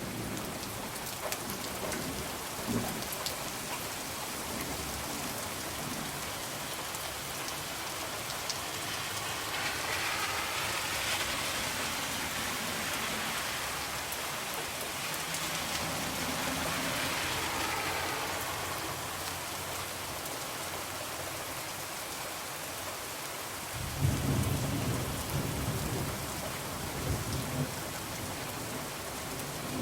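Steady rain pattering on a window, swelling for several seconds midway, with a low rumble of thunder starting about 24 seconds in. Scattered small crackles of a wood fire sound through the rain.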